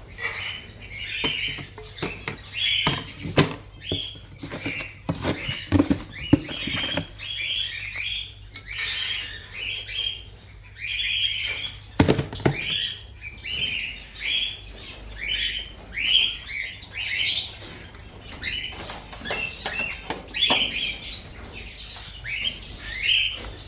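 Small parrots chirping again and again in short rising calls, about one or two a second, with scattered sharp clicks and rustles among them.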